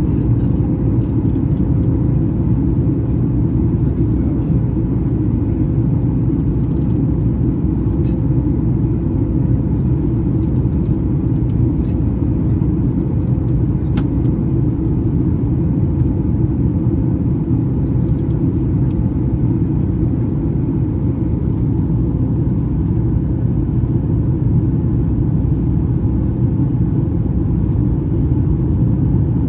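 Boeing 737 MAX 8 airliner's CFM LEAP-1B engines and airflow making a steady low rumble, with a steady hum over it and an occasional faint click.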